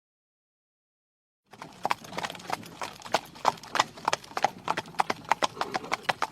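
Horse hooves clip-clopping in a steady rhythm, starting after about a second and a half of silence.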